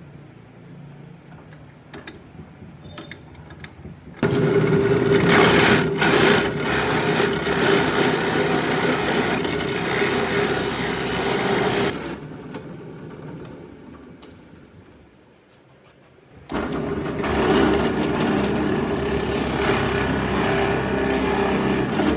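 Electric power tool running twice with a steady whine. It starts abruptly about four seconds in, runs for about eight seconds, then winds down. It starts again about sixteen seconds in and keeps running.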